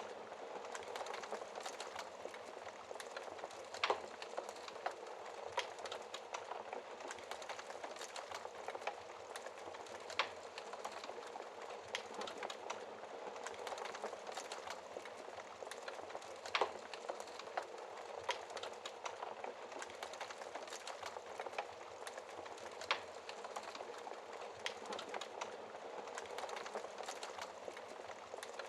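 Wood logs burning in a fireplace: a steady hiss and rustle of flames with irregular crackles and sharp pops, the loudest pops at about 4, 10, 16 and 23 seconds in.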